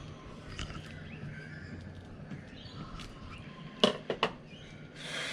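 Birds chirping faintly over steady outdoor background, with three sharp clicks or knocks close together about four seconds in and a brief rustle near the end.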